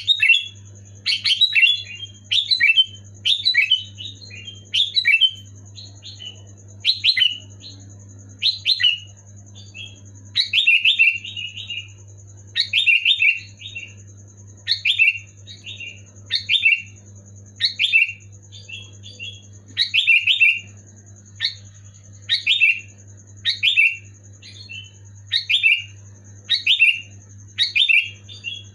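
Sooty-headed bulbul (kutilang) singing loudly, short bubbly phrases repeated about once every second or so. A steady low hum runs underneath.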